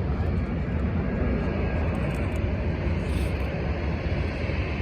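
Steady low rumble of a jet airliner's engines, an even roar without distinct tones.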